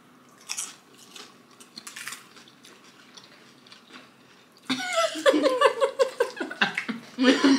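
Tortilla-chip nachos being bitten and chewed, a few scattered crunches. About two-thirds of the way in, voices break in with loud wordless vocalizing.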